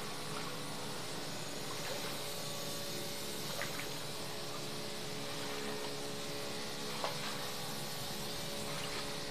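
A small motor running with a steady hum, over an even hiss, with a few faint clicks.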